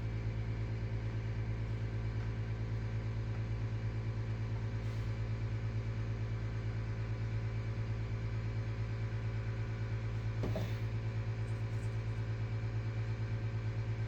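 A steady low hum from equipment in the room, with one faint click about ten and a half seconds in.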